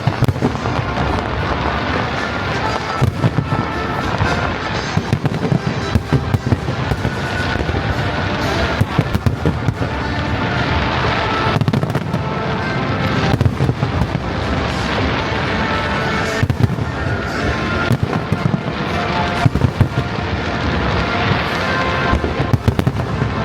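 Aerial fireworks display going off continuously, with rapid, overlapping bangs and crackling bursts.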